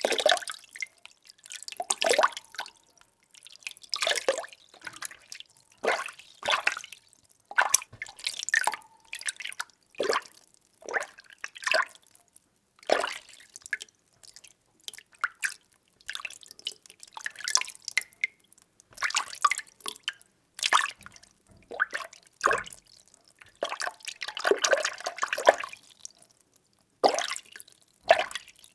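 Water being stirred by hand in a small vessel: irregular sloshes and drips, one or two a second, with a longer churning stretch near the end.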